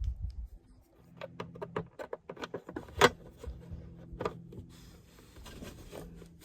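Light clicks and taps of a plastic console lid and its hinge parts and spring being handled and fitted, with one sharper click about three seconds in, over a faint steady hum.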